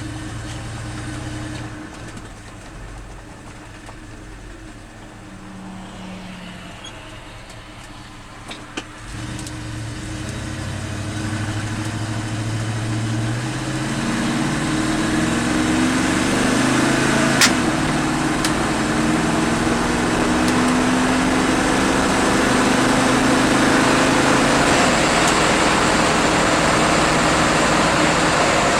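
1978 Ford F-150 pickup on the road: the engine runs quietly at low speed at first, then pulls harder from about nine seconds in, its pitch rising in steps as it picks up speed. It settles into a steady cruise with road and wind noise, and there is one sharp click partway through.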